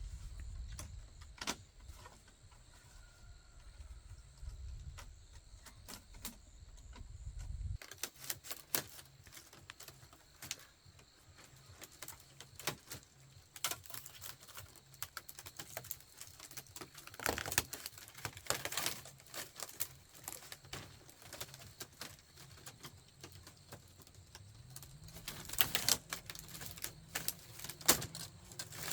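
Irregular light clicks and taps, scattered and quick, bunching into busier flurries past the middle and near the end. A low rumble underlies the first third and then stops.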